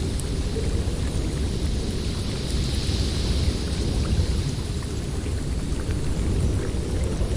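Blizzard wind: a steady low rumble with a hiss on top that swells for a second or two around the middle.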